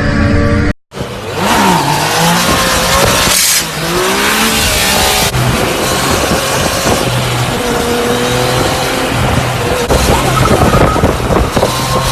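A motor vehicle's engine revving, rising and falling in pitch, over loud tyre and road noise. The sound cuts out briefly about a second in.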